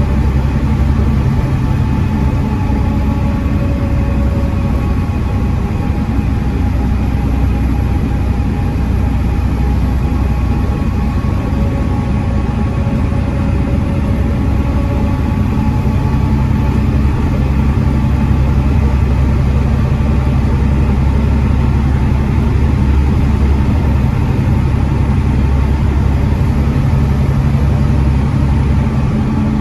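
Volvo D7C 7.3-litre diesel engine of a Volvo B7TL double-decker bus running steadily, with faint higher whines that rise and fall slowly.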